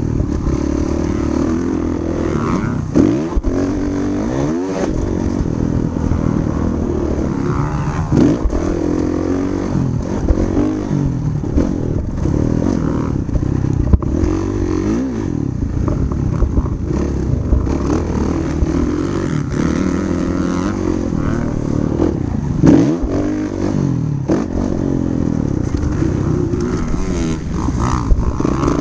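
Motocross dirt bike engine running hard, its revs rising and falling again and again as it accelerates and backs off, with some clattering.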